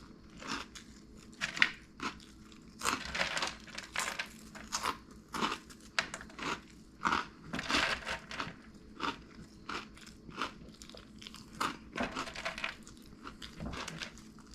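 Cheetos being chewed close to the microphone: a run of irregular crunches.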